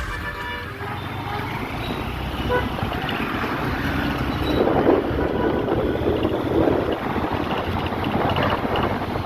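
Road noise from a motorcycle riding along a highway: engine, passing traffic and wind on the microphone as a steady rush, louder around the middle.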